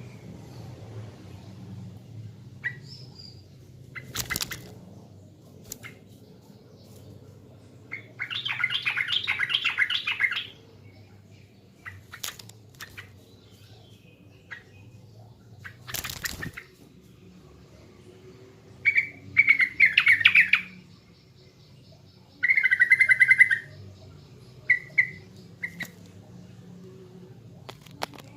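Yellow-vented bulbul singing in short bursts of rapid, bubbly chirping phrases, the longest about a third of the way in and two more near the two-thirds mark, with single chirps between them. A few sharp clicks and a faint low hum sit underneath.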